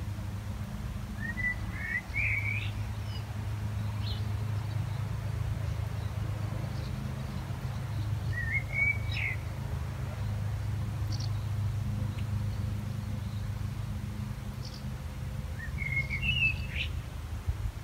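A small bird calling outdoors: three short, similar rising chirpy phrases, about seven seconds apart, over a steady low background rumble.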